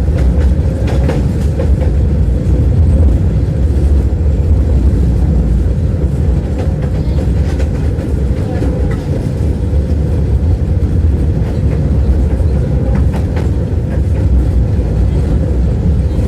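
Tram running along the track, heard from inside the passenger car: a steady low rumble of wheels on rails with a few sharp clacks over rail joints.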